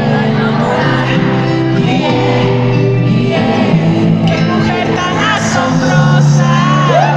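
Live pop-rock band music played loud through a concert PA, with singing, and a few high gliding cries near the end.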